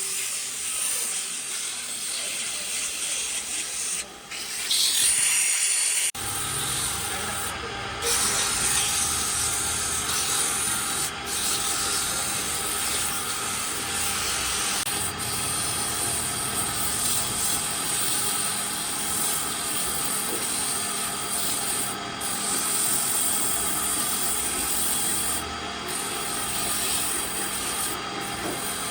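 Abrasive rubbing on wood, a continuous noisy sound that grows fuller and louder about six seconds in.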